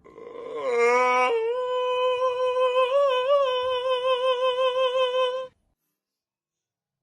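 One long drawn-out vocal call that rises in pitch at first, then holds a steady, slightly wavering note for about four seconds before cutting off abruptly.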